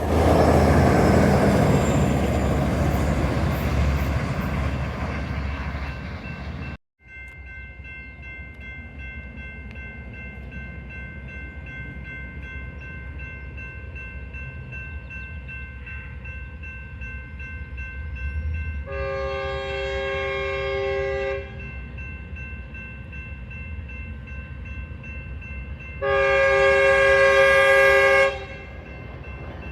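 A train passes loudly, its noise slowly fading, until an abrupt cut. Then a diesel locomotive's multi-chime air horn sounds two long blasts several seconds apart over a faint steady whine, and a third blast begins at the very end.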